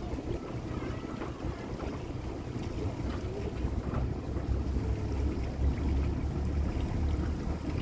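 Low, steady rumble of a boat on the water, with wind on the microphone. The rumble grows a little stronger about halfway through.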